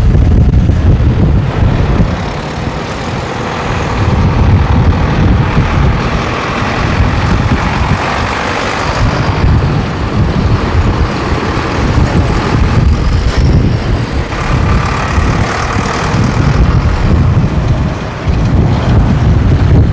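Diesel farm tractor engines running loud as tractors drive past, the level rising and falling as they go by.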